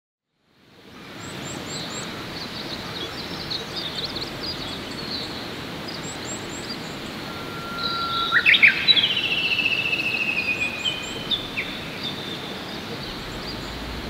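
Songbirds chirping and singing over a steady outdoor hiss. The sound fades in just after the start. Partway through, one bird sings louder and closer: a long held whistle that jumps up, then a long falling trill.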